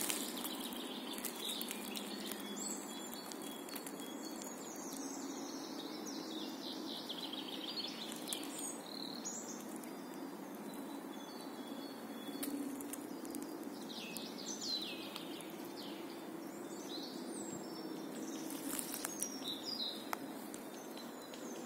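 Small birds chirping and calling in short, scattered phrases over a steady low background hum.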